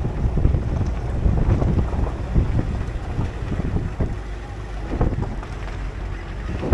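Wind buffeting the microphone on a moving shuttle vehicle, over a low rumble with irregular knocks and rattles.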